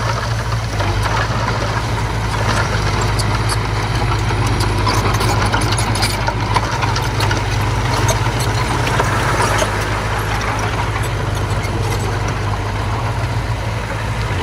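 Engine of a small earthmoving machine running steadily with a low hum, with scattered light clanks and rattles over it.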